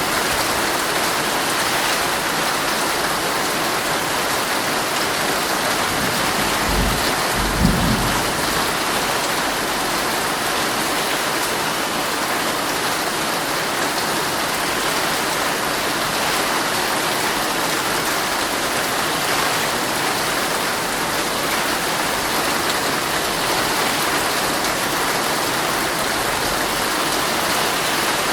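Heavy rain falling steadily on a tent, heard from inside, with a short low rumble of thunder about seven seconds in.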